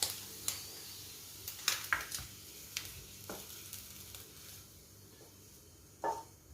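Fried chicken sausage pieces sizzling in a pan as they are moved out onto a plate, with a series of sharp taps and scrapes of the utensil against the pan. The sizzle dies down toward the end.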